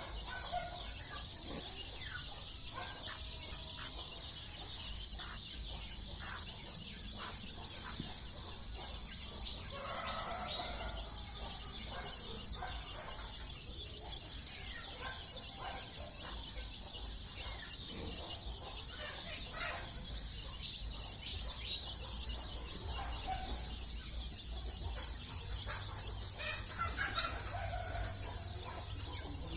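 Domestic chickens clucking and calling in short, scattered bursts over a steady high shrill of crickets.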